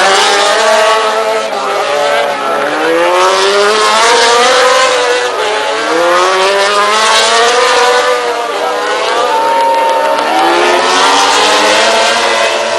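MotoGP racing motorcycle engine at full race pace. Its note climbs and drops several times as the bike accelerates through the gears and slows for corners.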